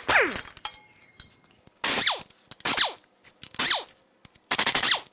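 A power wrench run in short bursts, about five of them roughly a second apart, each trailing off with a falling whine as the tool spins down, while bolts come off the front of the engine.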